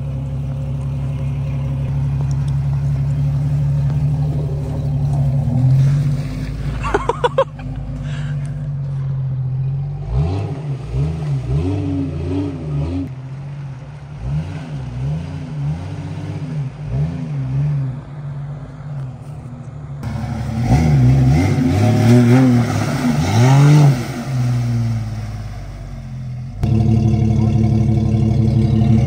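Jeep Cherokee XJ's 4.7-litre stroker inline-six running steadily, then revved up and down again and again from about ten seconds in, loudest near the end of the revving. A few sharp clicks come about seven seconds in.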